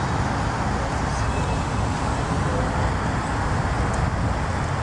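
Steady low rumble of a freight train rolling across a steel bridge, from its trailing CN diesel locomotive running as a distributed-power unit at the end of the train.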